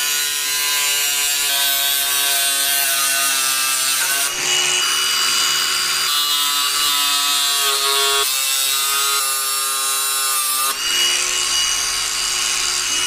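A power tool cutting through a bent metal brace on a motorbike. It is a loud, steady whine whose pitch shifts in steps as the cut loads the motor, with brief let-offs about four and eleven seconds in.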